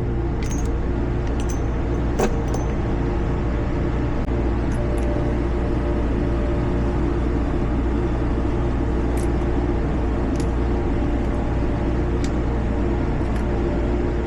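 Steady low mechanical hum with a few faint, sharp clicks scattered through it.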